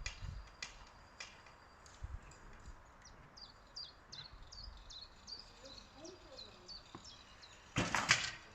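A small bird sings a run of short, high, falling chirps. Near the end comes a sudden loud whoosh of about half a second: an arrow shot from a bow. A few light clicks sound in the first two seconds.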